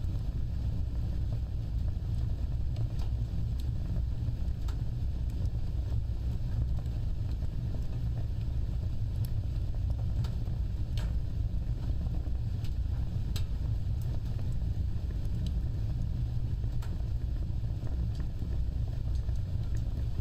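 Wood fire burning, with a steady low rumble of flames and scattered sharp crackles and pops every second or few.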